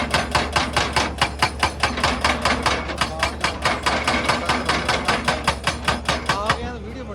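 Excavator-mounted hydraulic rock breaker hammering stone in a fast, even series of blows, about seven a second, over the steady hum of the excavator's engine. The hammering stops about six and a half seconds in.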